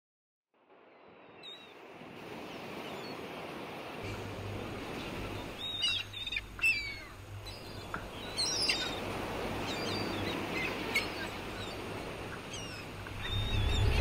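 Outdoor ambience fading in, with a steady low hum joining about four seconds in and several short bird chirps standing out in the middle.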